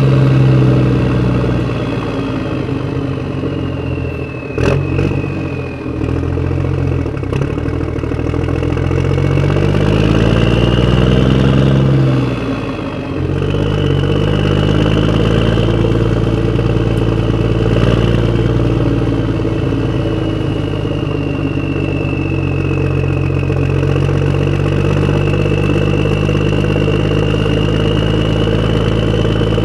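Small motor of a disk-spinning toy whirring continuously, its hum and high whine wavering in pitch as the speed drifts. There is a sharp click about four and a half seconds in.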